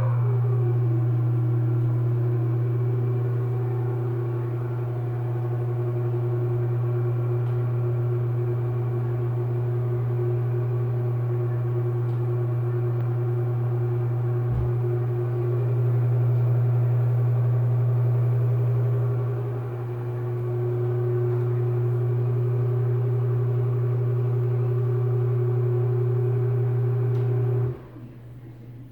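Nutone round exhaust fan with light running with a steady squeak over a low motor hum; the squeak slides down in pitch in the first second, then holds. The fan stops abruptly near the end. The squeak is the sign of a fan that needs work.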